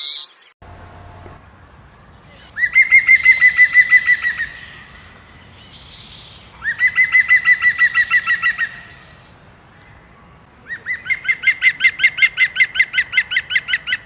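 A bird calling in three rapid runs of short repeated notes, each run lasting about two seconds, the last one the longest.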